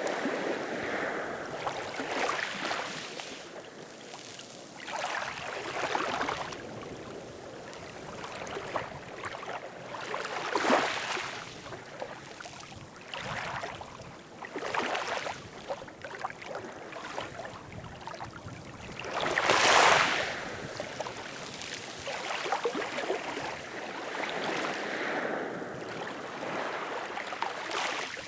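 Ocean waves washing in repeated surges every four to five seconds, the biggest about twenty seconds in.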